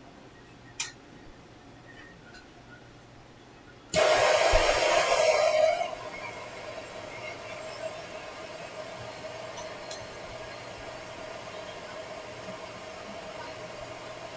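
A sudden loud rush of hissing air about four seconds in, lasting about two seconds, then a steadier, quieter blowing hiss with a steady hum.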